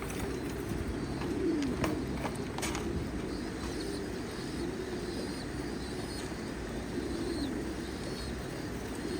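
Domestic pigeons cooing, low rising-and-falling coos repeating one after another, with a few sharp clicks about two to three seconds in.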